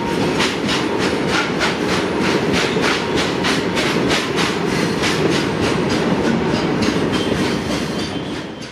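Loaded BOXN freight wagons rolling past, their wheels clicking over rail joints in an even clickety-clack of about three clicks a second over a steady rumble, fading out near the end.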